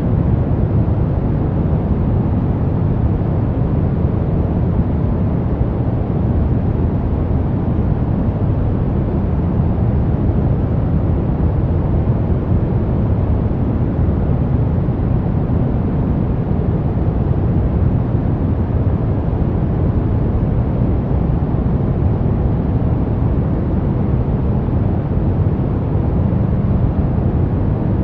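Brown noise: a steady, unchanging deep rumbling hiss with most of its energy in the low end and little in the highs.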